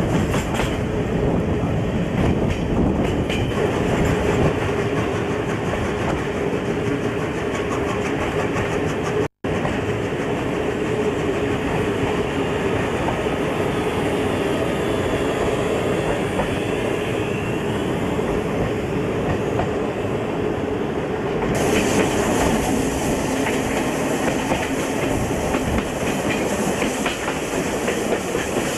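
Passenger train running along the track, heard from a carriage window: dense rolling rail noise with a steady hum and wheels clicking over rail joints. The sound drops out for a split second about a third of the way in.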